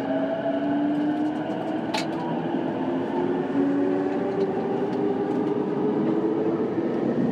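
JR East E233-5000 series electric train heard from inside a car while running: the traction motors whine in several tones that rise slowly in pitch as it gathers speed, over the rumble of wheels on rail. A single sharp click about two seconds in.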